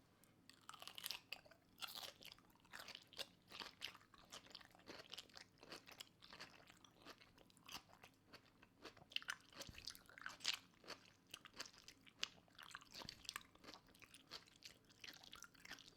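Faint mouse gnawing and nibbling sounds: rapid, irregular small crunching clicks.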